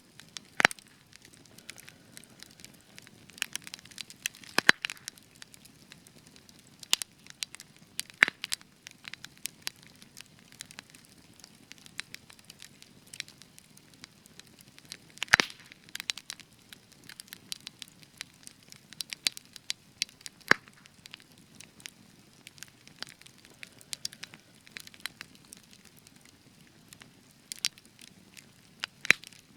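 Spruce wood burning in an open fire, crackling with sharp irregular pops over a low steady hiss; a few pops, about half a second in, near five seconds and near fifteen seconds, stand out loudest.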